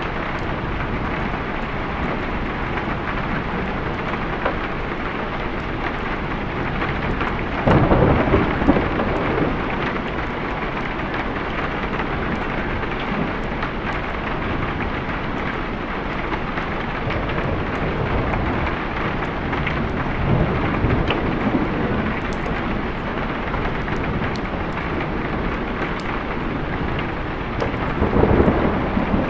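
Steady rain with thunder rumbling beneath it; a louder peal of thunder swells about eight seconds in and another near the end.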